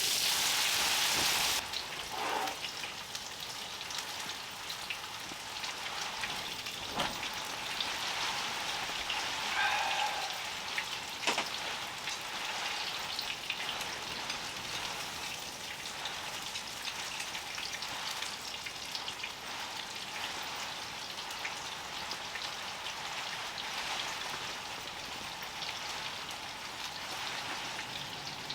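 Steady rain pattering on a tent, with scattered light taps of drops. A louder hiss in the first second and a half cuts off abruptly.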